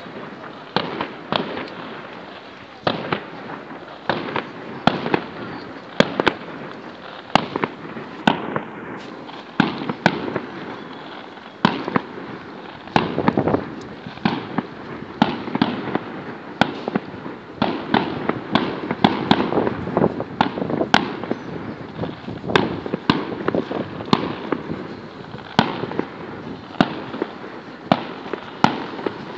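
Fireworks display: aerial shells bursting one after another, a sharp bang every half second to a second, over a continuous crackle that grows denser in the second half.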